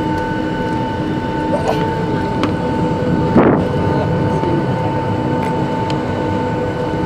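Boeing 757 jet engines and airflow heard inside the passenger cabin: a steady rumble with a steady engine whine over it. There is one brief louder sound about three and a half seconds in.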